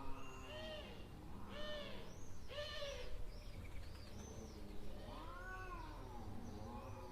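Cats calling at each other in a fight: a string of meows, each rising then falling in pitch, with a longer, lower call about five seconds in, over a steady low hum.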